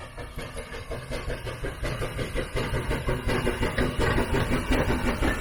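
Steam traction engine running, its rhythmic exhaust beat of about four to five pulses a second growing steadily louder as it approaches.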